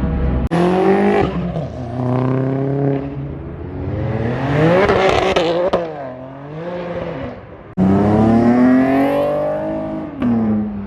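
Modified cars' engines revving and accelerating away, several passes cut together, each one climbing in pitch and then falling off as the car goes by.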